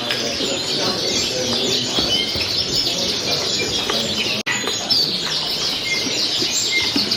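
Dense chorus of many caged birds chirping and twittering at once, mostly high, quick overlapping calls, with a momentary break in the sound about four and a half seconds in.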